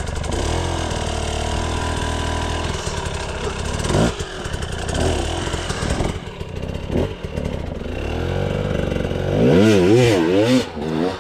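300 cc two-stroke dirt bike engine running at low revs, with a couple of sharp knocks partway through. Near the end the throttle is blipped, the revs swinging up and down several times in quick succession.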